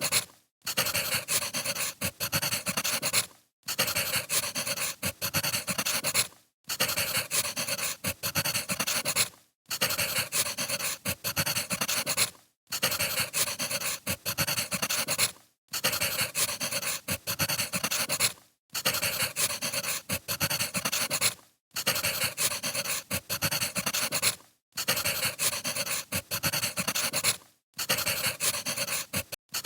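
Crackling wood fire, played as a short loop that drops out briefly about every three seconds.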